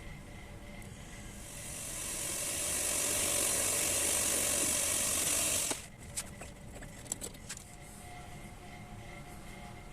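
Small hobby lathe running, its cutting tool working a steel stud blank: a hiss builds over about a second, holds steady for about three seconds, then cuts off sharply as the cut ends. A few light clicks follow as the lathe keeps running.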